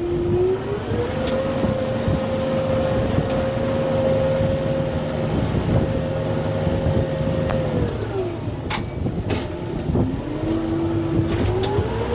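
Kubota M6-141 tractor's diesel engine working under load, its pitch rising about a second in, holding steady, dropping around eight seconds in, then rising again near the end. A few sharp knocks come around nine seconds in.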